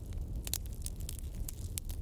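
Wood bonfire burning: a low steady rumble with sharp crackles and pops, several of them in quick succession.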